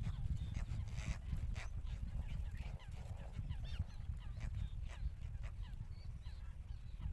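Little cormorant chicks calling at the nest: many short high calls in quick succession, some rising or falling in pitch, over a steady low rumble.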